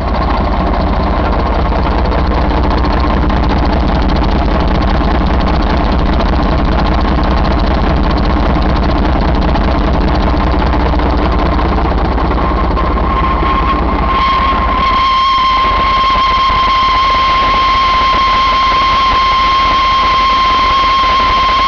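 Mercedes-Benz MBE4000 inline-six diesel engine running steadily. About two-thirds of the way in the low rumble eases and a steady high whine comes in and holds.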